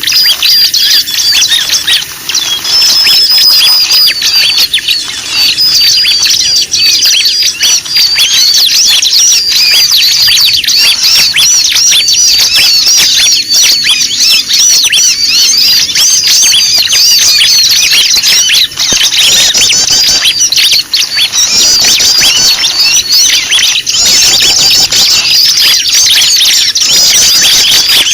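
A loud, dense chorus of many small birds chirping, squeaking and chattering all at once, with no pause. It is a layered bird-luring (pikat) recording of noisy calls.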